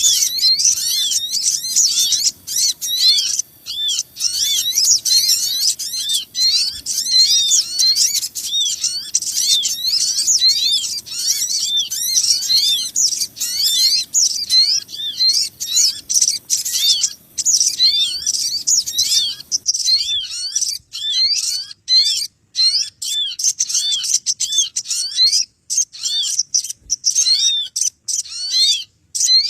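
Bird-lure recording of many small birds chirping in a dense, noisy chorus of short, high, rising-and-falling calls repeated rapidly over one another. A faint low background noise under the calls cuts off about two-thirds of the way through, and the chirping goes on a little sparser.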